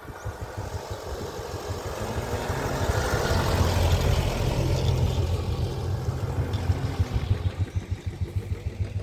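A vehicle engine running, growing louder to a peak about three to five seconds in and then fading, as if passing by.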